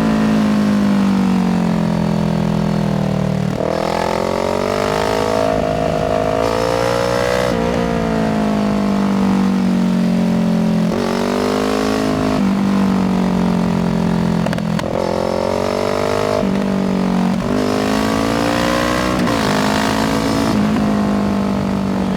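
Kawasaki Z650 parallel-twin engine through an IXIL aftermarket exhaust, ridden hard. The pitch keeps climbing and dropping with throttle and gear changes, with a break every few seconds.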